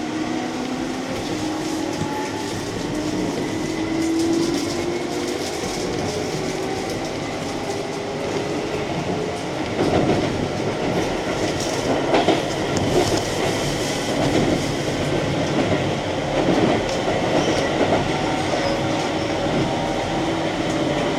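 Keihan electric commuter train running, its traction motors whining in tones that rise in pitch over the first few seconds as it picks up speed. From about ten seconds in, the wheels click over rail joints in irregular groups under a steady running rumble.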